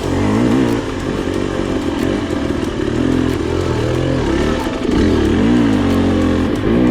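Dirt bike engine revving up and down again and again, with scattered knocks and clatter.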